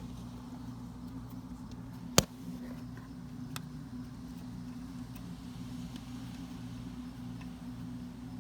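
A steady low mechanical hum, with one sharp metallic click about two seconds in and a few faint ticks, as a loosened bolt is worked out by hand from the timing chain tensioner.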